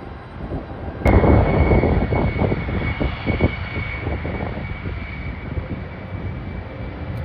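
Airliner engine noise: a low rumble with a steady high whine, coming in abruptly about a second in.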